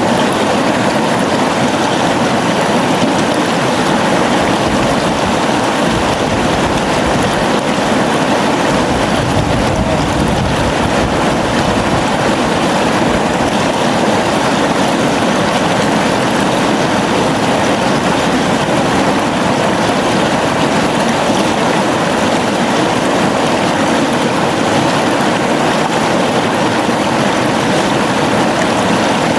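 A river flowing with a steady rush of water.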